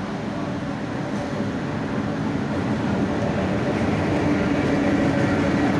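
A diesel locomotive hauling a goods train through the station without stopping, its engine rumble and the rolling of the train growing steadily louder as it comes up and passes.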